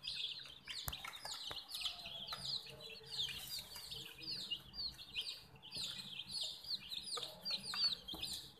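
Baby chicks peeping without a break: a dense stream of short, high calls that slide downward in pitch, several every second.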